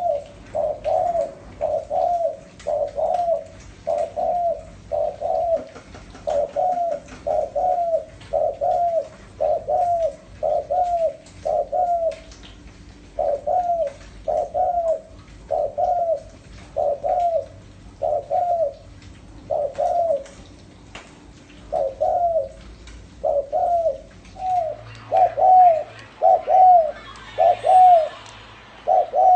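Spotted dove cooing: a lure bird's short coos repeated about three every two seconds, with two brief pauses and a few louder notes near the end. This is the 'gù' call used as a decoy to provoke wild spotted doves.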